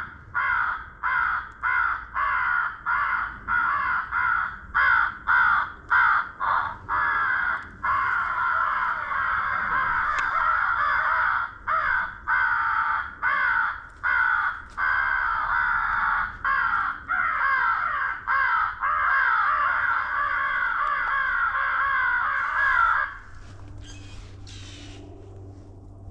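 Loud crow caws in quick repeated series, with stretches where the calls overlap into a continuous cawing chorus. They stop abruptly about 23 seconds in.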